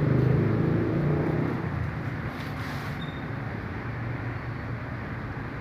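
Motorcycle engine running, louder for the first couple of seconds and then easing back to a steady, lower running sound.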